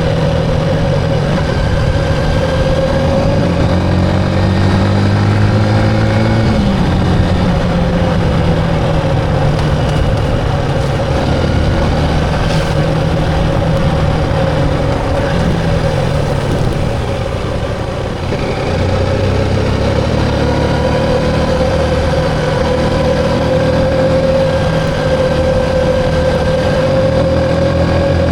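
Motorcycle engine running steadily while riding, its pitch rising and falling with throttle and gear changes; one rise about six seconds in ends in a sudden drop.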